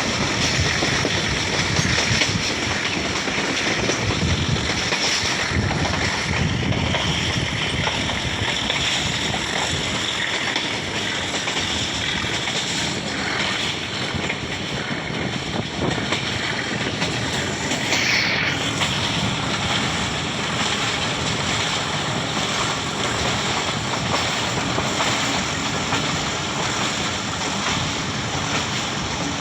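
Steady running noise of a passenger train in motion, heard from on board, with wind buffeting the microphone. A brief falling whine comes about two-thirds of the way in.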